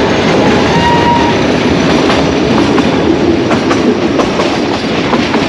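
Nilgiri Mountain Railway toy train running on the Ooty–Coonoor line, heard from an open carriage window: a loud, steady rumble of wheels on rail, with irregular clicks of the wheels over rail joints from about two seconds in.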